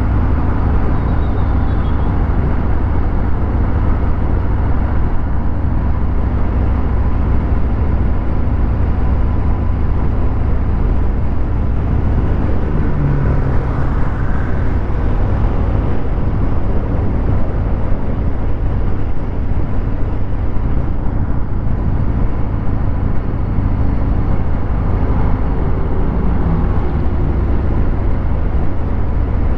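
Harley-Davidson Fat Bob 114's Milwaukee-Eight 114 V-twin running through a Vance & Hines Hi-Output 2-into-1 exhaust while riding, a steady deep rumble with a brief rise in revs about halfway through.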